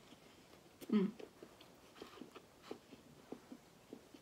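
Chewing a bite of turkey sub with lettuce, spinach, cucumbers and pickles: small irregular mouth clicks, with a short voiced sound from the eater about a second in.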